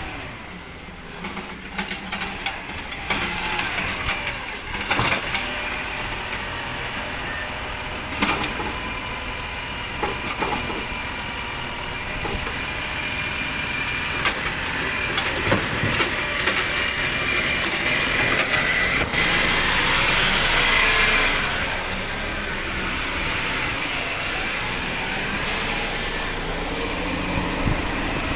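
Rubbish collection truck working, its engine running under scattered clanks and knocks. The sound swells for a few seconds around twenty seconds in.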